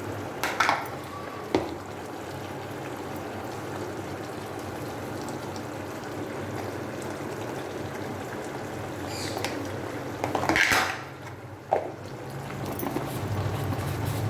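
Chicken curry with potatoes simmering steadily in a pot, with a few knocks and scrapes of a utensil against the pot; the loudest scrape comes about ten and a half seconds in.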